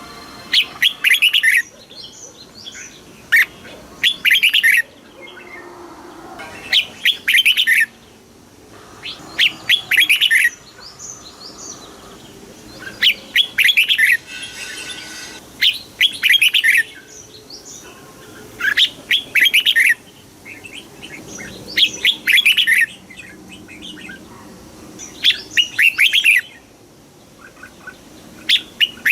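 Red-whiskered bulbul singing: short, quick warbled phrases about a second long, repeated every two to three seconds, with softer chatter between them.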